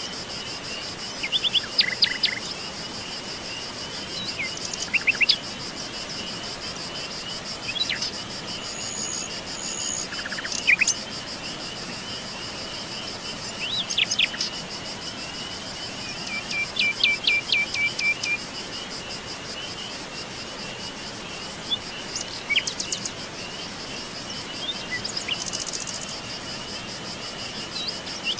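Wild birds chirping and calling in short, scattered phrases every few seconds over a continuous high, fast-pulsing insect trill like crickets, with a faint steady hiss beneath.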